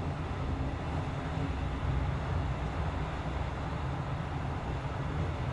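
Passenger train running at speed, heard from inside the carriage: a steady low rumble of wheels on rail and running gear.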